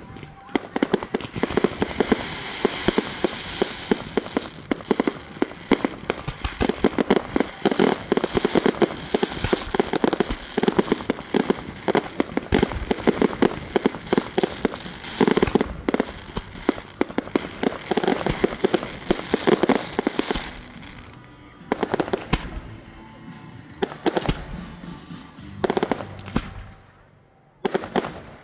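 Fireworks display: a dense barrage of rapid sharp reports and bangs from ground fountains and aerial shells. About twenty seconds in it thins to a few single bangs roughly two seconds apart.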